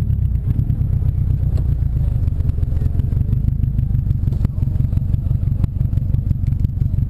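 Turbocharged Subaru BRZ's flat-four engine running at a steady idle after coming off the throttle: a loud low rumble with a fast, even pulse. A few light clicks come through about a second and a half in and again near the middle.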